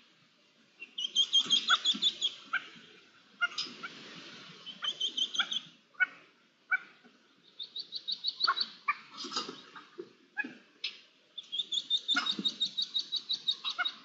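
Birds calling in quick runs of high chirps, about eight notes a second, each run lasting a second or so and repeated several times, among scattered sharp clicks and low rustling on the ground.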